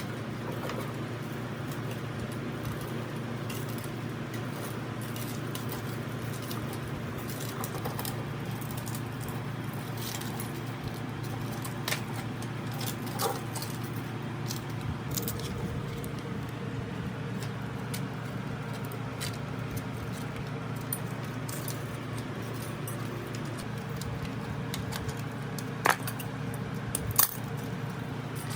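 Small metal parts clinking and tapping as they are handled, with two sharper clicks near the end, over a steady low hum.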